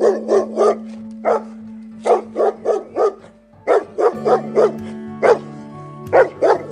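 A dog barking in quick runs of two to four short barks, over background music with held low notes.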